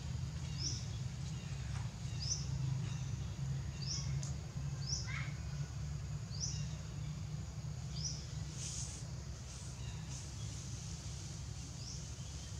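A bird repeating a short, high, rising chirp about once a second over a steady low rumble, with one lower falling call about five seconds in.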